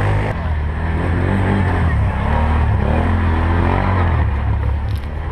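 4x4 ATV engine running under way, its pitch rising and falling with the throttle.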